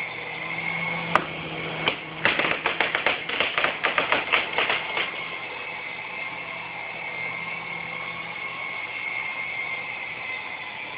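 S107G coaxial RC helicopter's small electric rotor motors whining steadily. A sharp click comes about a second in, then a fast run of clattering knocks, several a second, from about two to five seconds in.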